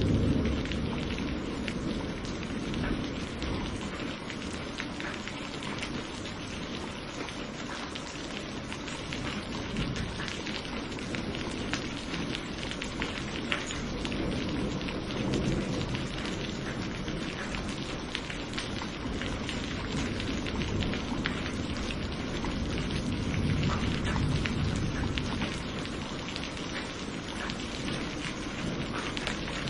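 Steady rain with a dense patter of drops. Low thunder rumbling fades out at the start, and another soft roll of thunder swells and dies away about three-quarters of the way through.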